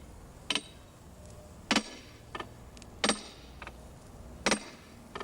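Hammer blows on an iron ring being driven down onto an oak trunk, each strike ringing metallically. About seven strikes at an uneven pace, heavy blows roughly every second and a half with lighter ones between.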